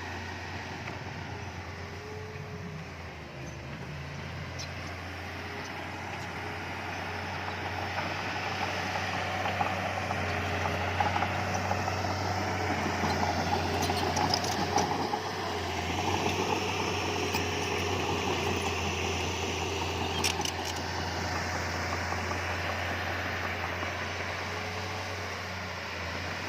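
Diesel engine of heavy earthmoving machinery running steadily, growing louder through the middle, with a few sharp clicks or clanks about halfway through and again a little later.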